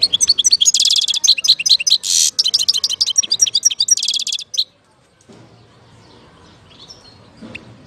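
European goldfinch singing: a fast, loud run of high twittering trills with a short buzzy note in the middle. The song breaks off after about four and a half seconds, leaving only faint chirps.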